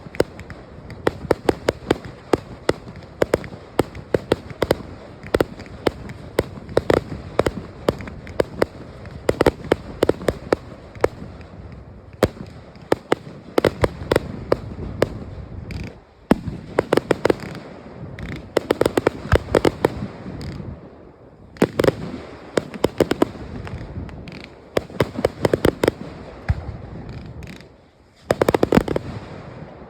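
Fireworks display: many bangs and pops in quick succession, coming in clusters with brief lulls.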